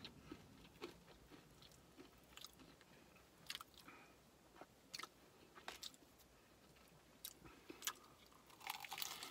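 Faint chewing and biting of crispy fried chicken, with scattered sharp crunches of the breading.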